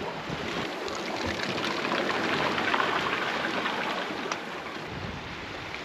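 Calm sea washing gently against shoreline rocks as the tide comes in: a steady fizzing hiss of water that swells slightly a couple of seconds in, then eases off.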